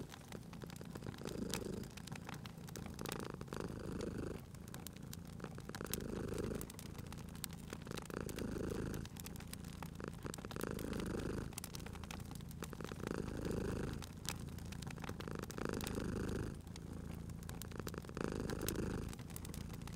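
Cat purring in slow, even cycles, each swell lasting about two seconds, over the steady snapping and crackling of a wood fire.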